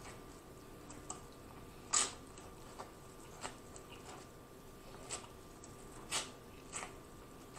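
Close-miked biting and chewing of corn on the cob: short, sharp crunches of the kernels about once a second, the loudest about two seconds in.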